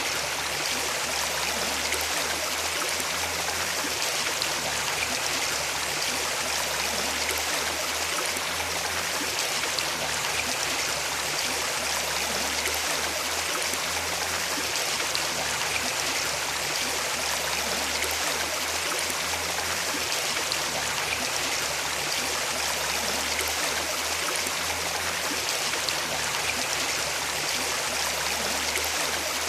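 Running water: a stream flowing, with a steady, even rush.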